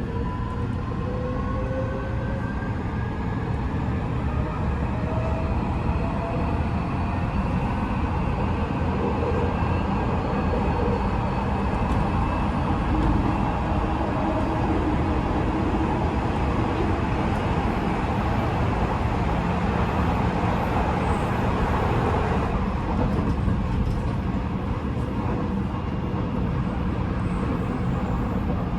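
Odakyu 5000 series train running, heard from inside motor car DeHa 5006: the Mitsubishi full-SiC VVVF inverter and traction motors whine, with several tones gliding upward as the train accelerates over the first several seconds. These fade into a steady rumble of wheels on rail at speed.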